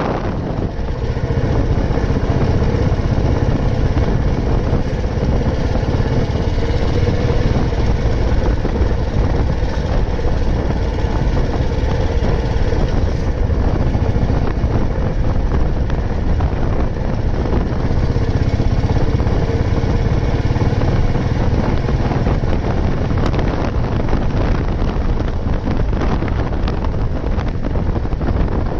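Old Royal Enfield Bullet 350's single-cylinder engine running steadily while the motorcycle is ridden.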